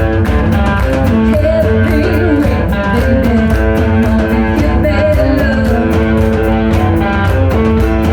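Live rock band playing: electric guitar over bass and a steady drum beat.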